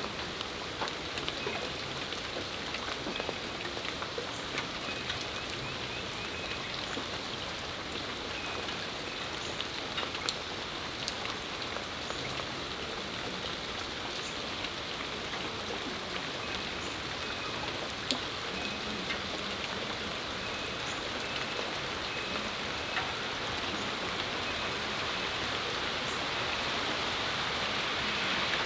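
Steady rain: an even hiss with scattered sharp drips close by, swelling slightly louder near the end.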